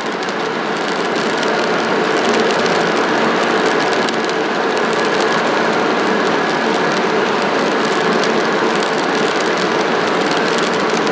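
Model train running on the layout track: a steady rumble of wheels and motor with faint scattered clicks.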